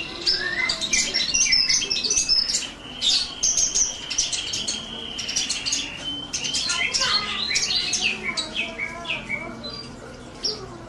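Small bird chirping and twittering in quick, high notes, with a steady high trill held for about three seconds midway.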